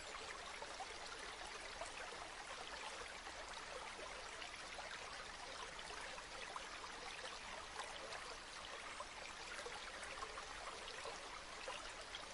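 River water flowing gently and steadily: an even, soft rush with fine babbling and trickling.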